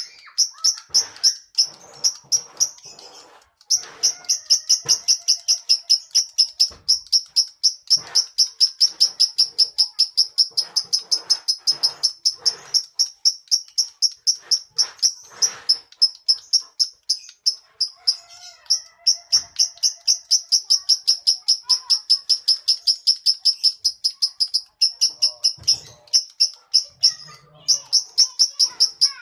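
Lovebird singing a long, fast run of high, repeated chattering notes, broken by a few brief pauses.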